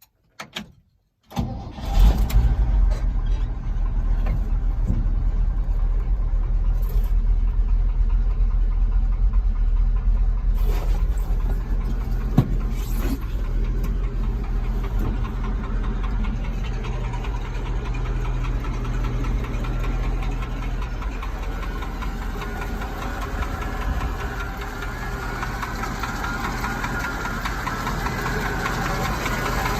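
1970 Chevrolet C60 grain truck's engine being cranked and catching about a second and a half in, then idling steadily.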